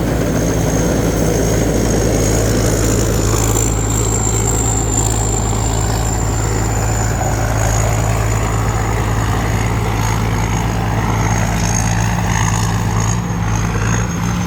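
Rice combine harvester running steadily while harvesting, cutting flattened rice close to the ground: a constant engine hum with a steady high whine above it.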